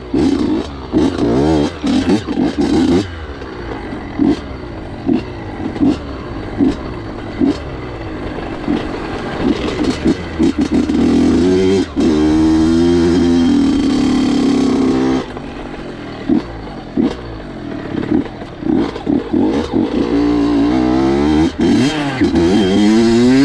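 Honda CR85 85cc two-stroke dirt bike engine revving up and down as it is ridden over rough ground, with many short throttle blips. A longer held rev comes about halfway through, and the revs climb again near the end.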